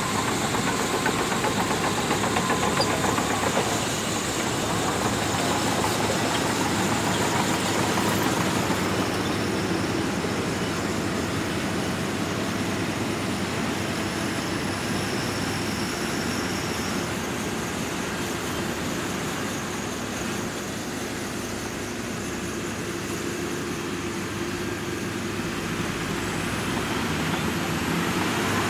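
Shantui DH17C2 bulldozer's diesel engine running steadily while working, easing off a little about two-thirds of the way through and building again near the end.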